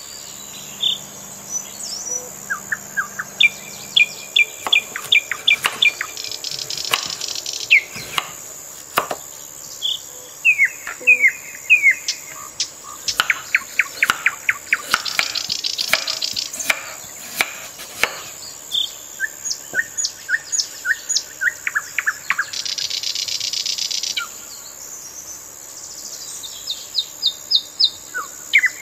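Birds singing: repeated short chirps and quick trills from several birds.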